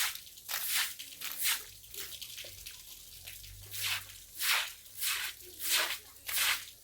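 Crunching footsteps, roughly one every two-thirds of a second, with a short gap in the middle.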